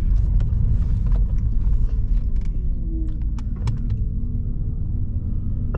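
Engine and road noise heard inside the cabin of a moving six-speed Nissan Altima: a steady, heavy low rumble, with a faint falling and rising engine tone in the middle and a few light clicks.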